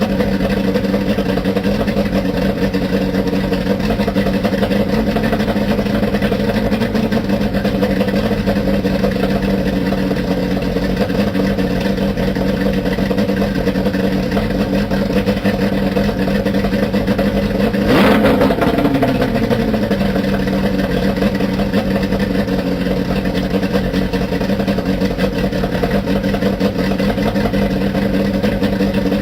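Johnson two-stroke outboard motor running at a steady speed. A single sharp knock cuts across it about two-thirds of the way through.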